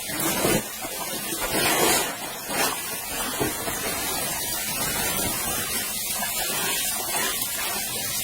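Steady rush of falling water, with a few louder sweeps of noise in the first three seconds.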